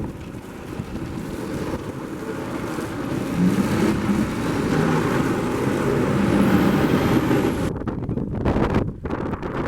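Motor vehicle engine and road noise building up over about three seconds and holding steady, then cutting out abruptly several times near the end.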